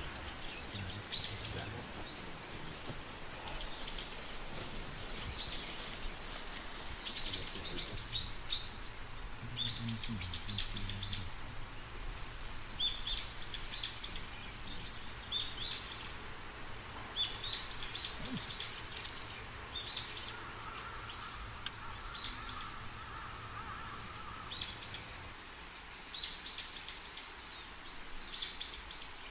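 Wild birds chirping, many short high calls repeating in quick runs, over a faint low hum that stops a few seconds before the end.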